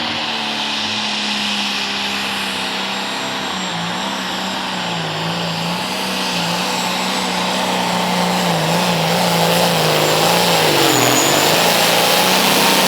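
Pulling tractor's diesel engine running flat out under load down the track, its pitch wavering and dipping briefly near the end, with a thin steady high whine above it.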